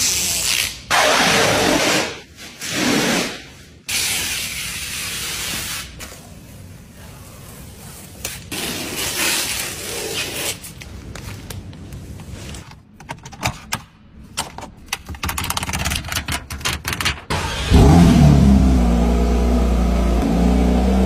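Paper and plastic protective covers being pulled and peeled off a new Porsche 911 GT3, rustling and scraping in irregular bursts. About eighteen seconds in, the GT3's flat-six engine starts and settles into a loud, steady idle.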